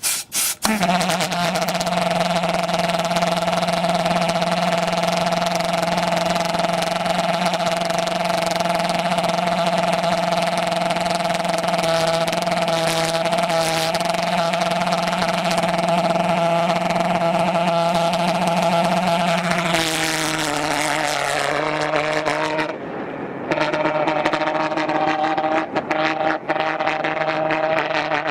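Pulse jet engine on a plane starting abruptly and running with a loud, steady drone at one fixed pitch. About twenty seconds in, the pitch sinks. It falters briefly a few seconds later, then runs on at a lower pitch.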